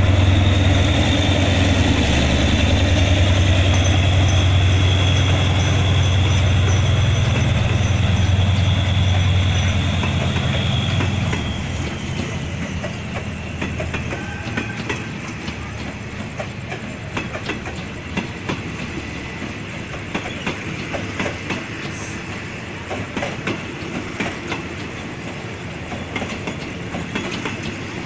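Diesel locomotive of a Thai railway train running loudly as it passes, its low engine hum fading after about eleven seconds. The cars follow, rolling by with the clickety-clack of wheels over rail joints.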